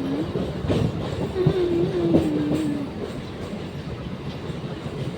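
Train running along the track, its wheels clicking over the rail joints with a steady rumble. A held droning tone sounds twice in the first three seconds, then the running noise drops a little quieter.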